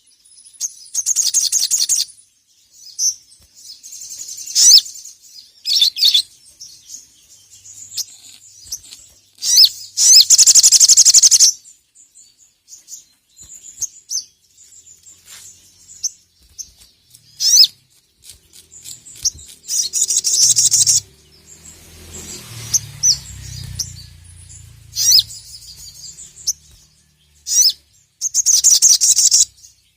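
Sogok ontong (sogon, a spiderhunter) singing in loud, rapid, high-pitched chattering bursts, the longest lasting about two seconds, separated by short pauses.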